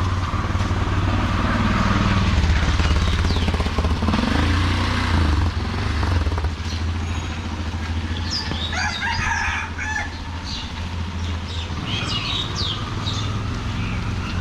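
Street ambience with a steady low vehicle engine rumble, louder in the first half. A rooster crows about two-thirds of the way in, and small birds chirp near the end.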